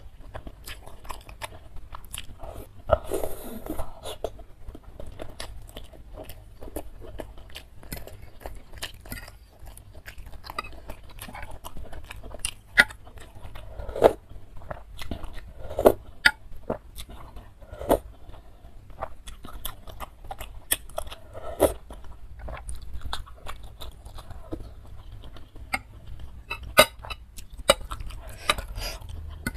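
Close-miked eating sounds: wet chewing and mouth clicks on spicy instant noodles in soup with meatballs, with occasional light clinks of a fork and spoon against the bowl.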